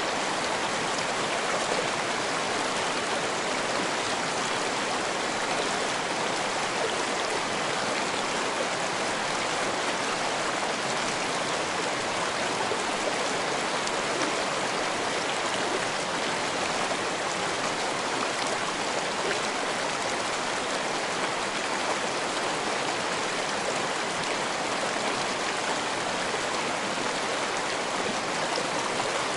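Water of a small rocky stream running over stones, recorded close up: a steady, even rushing and babbling that does not change.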